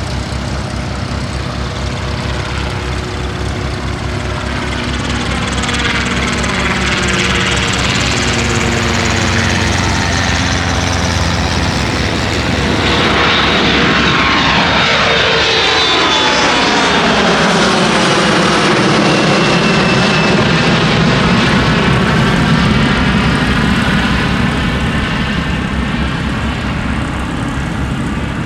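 An airplane's engines pass close by, loud throughout. The sound builds to a peak about halfway through, when the engine tone drops in pitch as the aircraft goes past, then stays loud with a broad rush.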